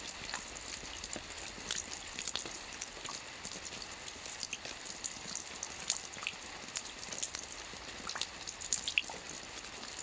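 Steady rain with close, irregular raindrop ticks and patters on a hard surface.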